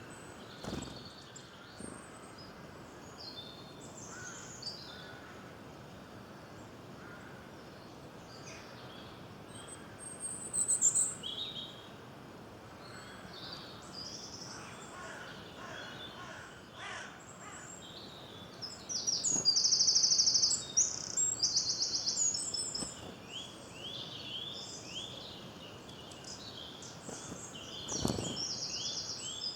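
Several songbirds chirping and singing over a steady outdoor background hiss, with the loudest rapid trills about a third of the way in and again around two-thirds through.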